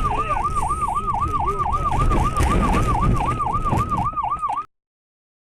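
Emergency vehicle siren in a fast yelp, its pitch rising and falling about four to five times a second over low road rumble. It cuts off abruptly near the end.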